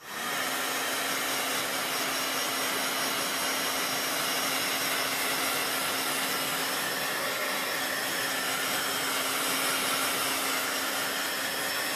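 Handheld craft heat tool switching on and blowing steadily, with a faint even hum under the rush of air, drying freshly applied chalk paste.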